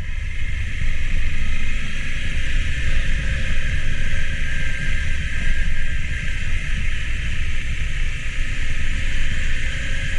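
Motorcycle engine running steadily under way, with a constant rushing noise over it; the engine pitch rises slightly near the end.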